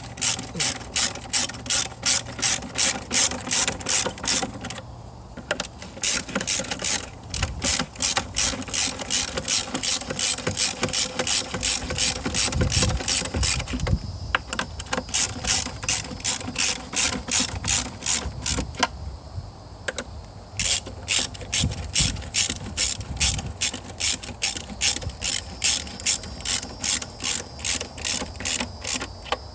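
Hand ratchet wrench clicking in quick regular runs of about three to four clicks a second, with a few short pauses, as nuts are run down onto the jet pump's mounting studs.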